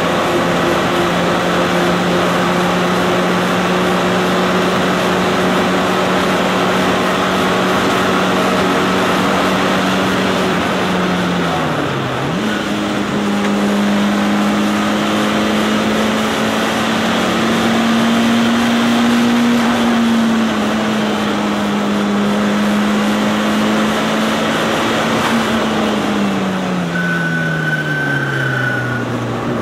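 Mitsubishi Lancer Evolution III's turbocharged 2.0-litre four-cylinder engine pulling hard, heard from inside the cabin. Its note holds steady, dips about twelve seconds in and comes back at a higher pitch, then falls away steadily near the end as the car slows, with a brief high-pitched tone over it.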